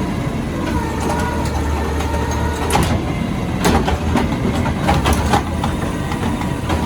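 Automated recycling truck's diesel engine running with a steady whine as the grabber arm works. From about three seconds in comes a series of sharp clanks and bangs as the bin is lifted and dumped into the truck.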